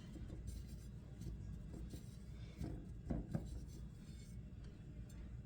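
Faint kitchen handling sounds: soft rubbing with a couple of light knocks about three seconds in.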